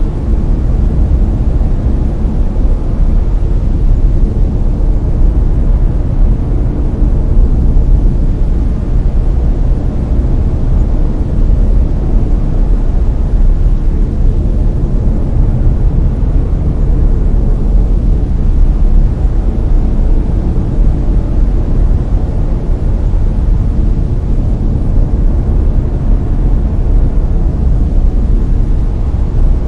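Steady brown noise: a deep, even rush with most of its weight in the bass, unbroken and unchanging.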